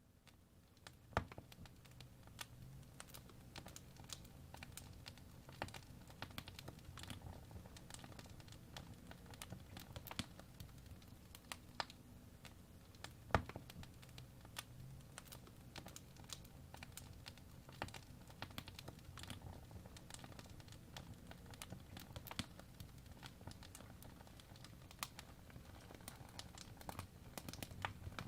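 Wood fire burning in a fireplace: logs crackling with irregular sharp pops and snaps over a low steady rumble of the flames, with a louder snap about a second in and another past the middle.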